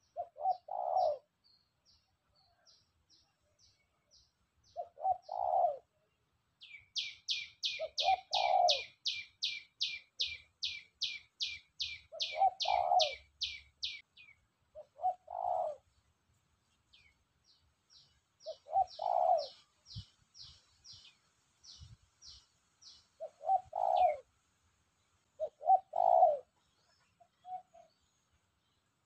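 Spotted dove (tekukur) cooing, a short phrase repeated about eight times at intervals of roughly three seconds: the captive bird calling freely. A small bird chirps high over it, with a fast run of about twenty notes in the middle.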